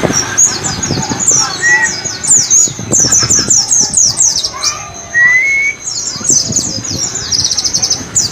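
White-eye (pleci) song: rapid runs of high, thin, downward-slurred notes, broken a little past halfway by a fast, even trill, with a couple of lower rising whistles in between.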